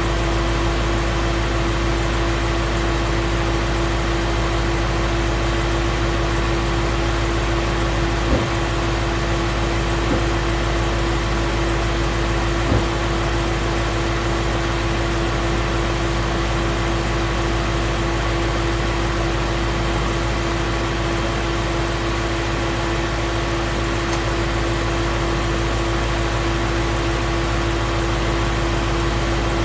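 2016 Ford Mustang's 5.0-litre Coyote V8 idling steadily and smoothly, without the abnormal 'barbecue igniter' tick; the owner takes it for a normal, healthy engine. A couple of brief clicks sound about eight and thirteen seconds in.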